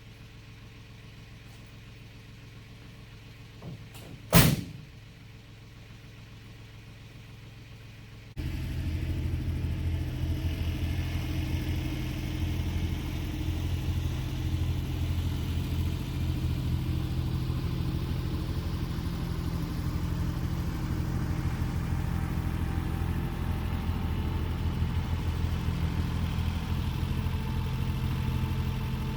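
A faint low hum with one sharp click about four seconds in; then, about eight seconds in, an engine idling steadily cuts in abruptly, with an even low pulse of its firing.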